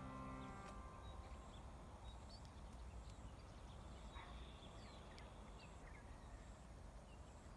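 Faint outdoor background with a low rumble and a few short, faint bird chirps scattered through it, while a piano note from background music dies away in the first second.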